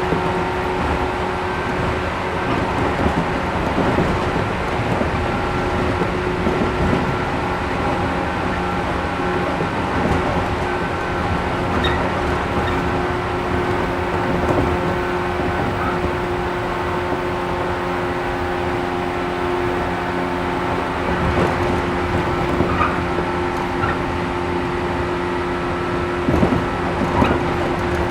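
Interior running sound of a 113 series 1500 sub-series resistance-controlled electric multiple unit: a steady rumbling hum with several held tones, and a few faint knocks here and there.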